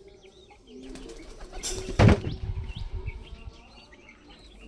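Domestic pigeons cooing, with a sudden burst of wing flapping about two seconds in that is the loudest sound, and thin high chirps around.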